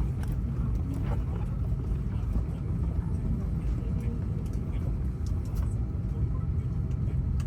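Steady low rumble inside a parked Airbus A321 cabin after engine shutdown, with faint passenger voices and a few light clicks over it.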